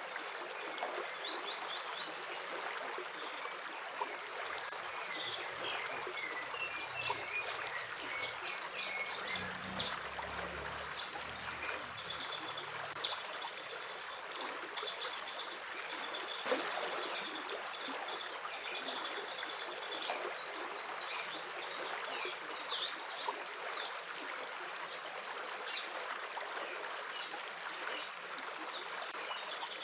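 A small stream running and trickling steadily, with several songbirds chirping and trilling over it throughout.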